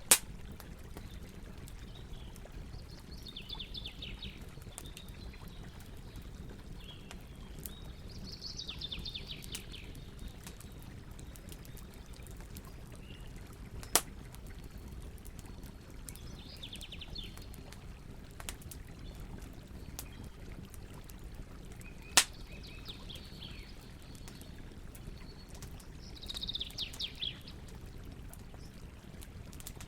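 Campfire crackling over a steady low rumble, with three loud sharp pops: one right at the start, one about midway and one about two-thirds of the way through. Birds chirp in short bursts in the background, five or six times.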